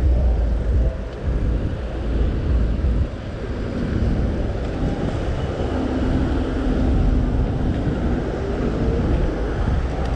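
Wind buffeting the microphone of a moving e-bike, mixed with steady street traffic noise, and a faint rising whine near the end.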